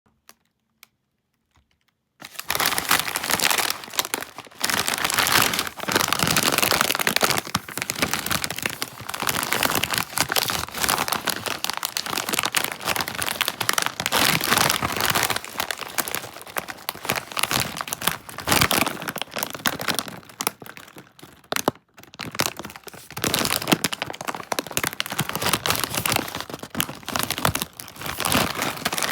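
Crinkling and crackling of a foil potato-chip bag being handled and opened. It starts about two seconds in and breaks off briefly a little past the middle.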